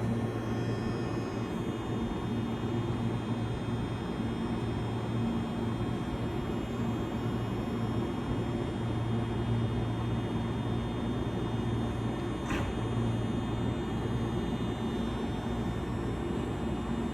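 Meitetsu 6800 series electric train standing still, its onboard equipment giving a steady low hum with faint high steady tones. A brief high squeak about twelve seconds in.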